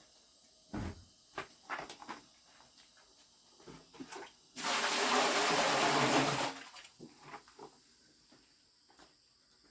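Water gushing or pouring for about two seconds near the middle, with scattered light knocks and clatter before and after.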